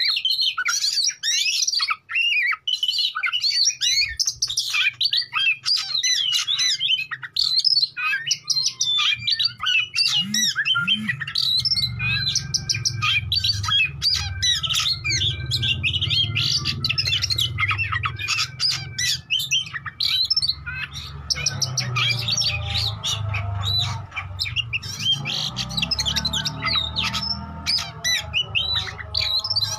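Oriental magpie-robin (kacer) singing non-stop, a fast, varied stream of whistled notes, trills and harsh chattering calls. A low steady hum comes in beneath it about a third of the way through.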